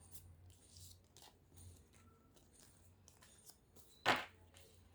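Faint rustles and light taps of tarot cards being handled, with one short, louder swish about four seconds in.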